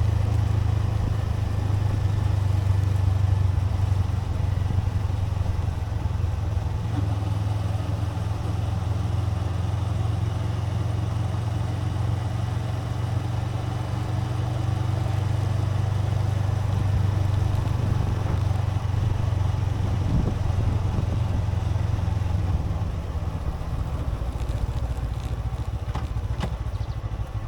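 Suzuki V-Strom 250 motorcycle engine running steadily while riding, with a low, even drone and wind noise on the action camera's microphone.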